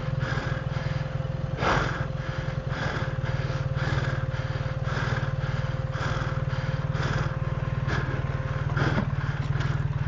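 BMW R 1300 GS Adventure's boxer-twin engine running steadily at low revs, with a couple of short knocks about two seconds in and near the end.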